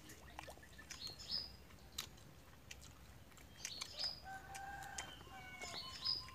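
Birds chirping and calling: clusters of short, high, falling chirps and a few held whistled notes, with scattered sharp clicks.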